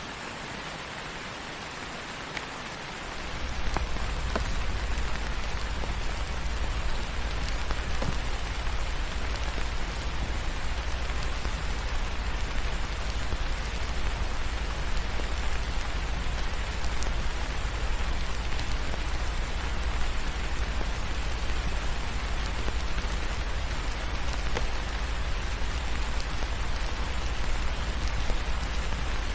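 Steady rain falling on a surface, with a few faint scattered ticks. A deep low rumble drops out at the start and comes back in about three seconds in, making it louder from then on.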